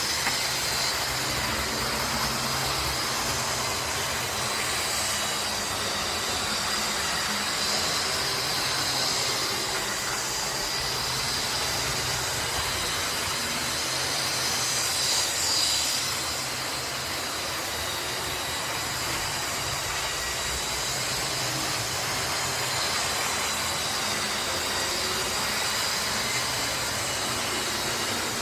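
Model diesel locomotives running on a model railway track: a steady hiss of wheels and motors with a high whine that wavers slightly in pitch and swells briefly about halfway through.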